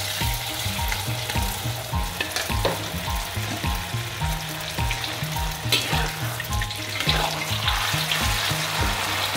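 Egg and silken tofu batter frying in hot oil in a wok: a steady sizzle that flares louder about six and seven seconds in. Background music with a steady beat plays under it.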